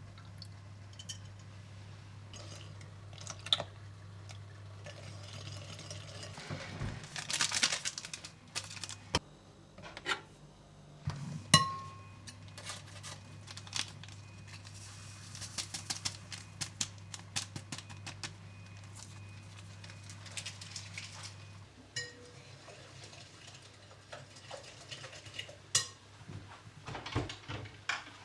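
Kitchen work: dishes and utensils clinking and knocking in irregular bursts, with one sharper knock about eleven seconds in. A steady low hum runs underneath and stops about 22 seconds in.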